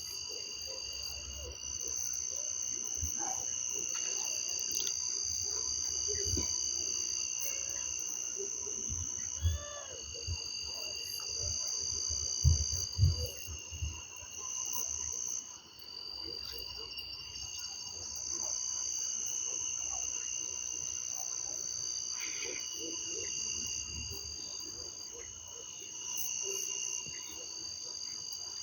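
Chorus of insects trilling steadily at several high pitches, some cutting in and out, with frogs calling underneath. A few low thumps stand out about a third and nearly half way through.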